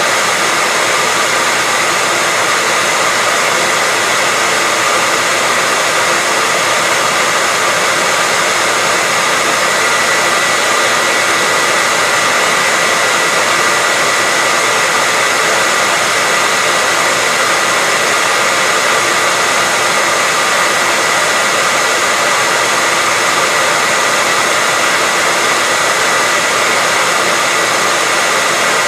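Hair dryer running steadily: a continuous airy rush with a faint steady whine near the top.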